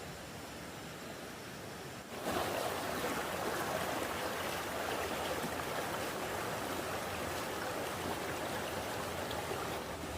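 A steady rushing noise, like running water, that jumps abruptly louder about two seconds in and then holds steady.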